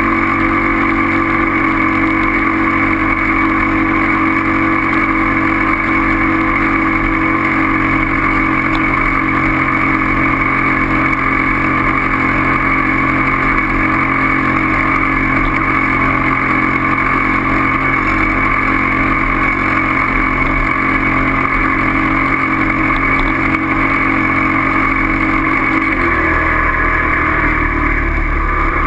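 A steady mechanical drone, like a motor running at constant speed, that shifts in pitch about 26 seconds in.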